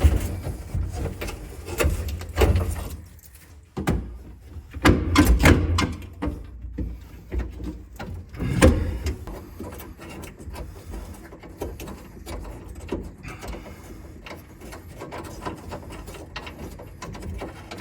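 Hands rummaging behind an old pickup's dashboard, with irregular knocks, scrapes and clatter against metal. The loudest knocks come about five and nine seconds in, followed by quieter rustling.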